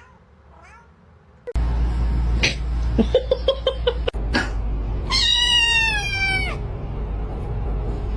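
Domestic cat meowing: a quick run of short chirps, then one long, drawn-out meow that falls in pitch.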